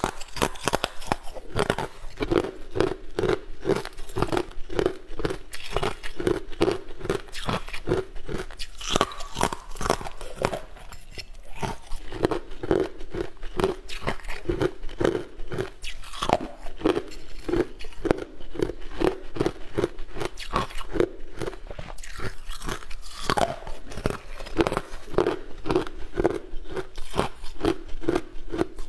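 A person biting and chewing hard, translucent white blocks, with dense crisp crunches several times a second throughout.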